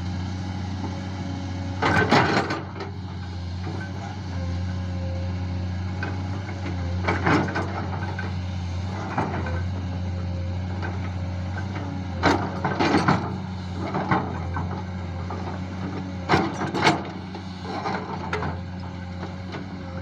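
A JCB digger's diesel engine running steadily, with loud clanks and scrapes from the working bucket and arm about every two to three seconds as it digs.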